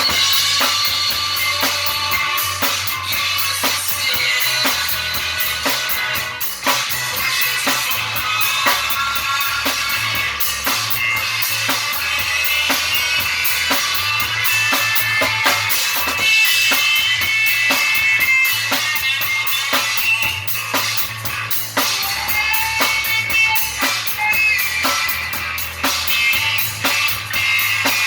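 Rock and roll band playing an instrumental passage: a steady drum-kit beat with bass drum, and a guitar carrying a melodic lead line.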